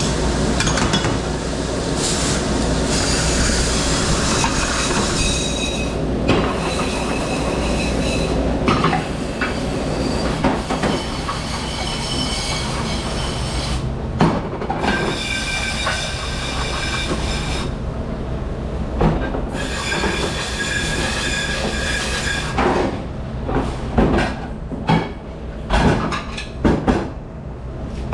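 Commercial dish room machinery running steadily with a low hum, with high squealing tones that come and go. Dishes and racks clatter repeatedly in the last few seconds.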